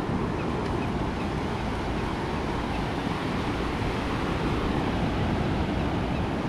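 Steady beach wind rumbling on the microphone, mixed with the even wash of ocean surf.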